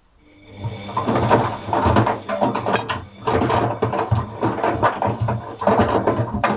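Atlant washing machine drum turning with its motor humming while paint rollers and brushes tumble and knock around inside. The sound starts shortly after the beginning and pauses briefly about halfway through.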